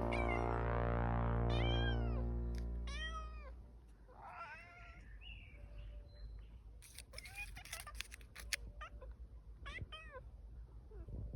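A cat mewing over and over in short, high, rising-and-falling calls, with background music fading out over the first few seconds. A few sharp clicks or taps come in the middle.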